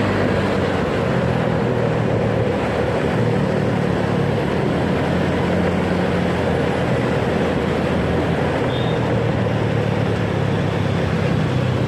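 Motorcycle engine running steadily while riding through traffic, under a constant rush of road noise.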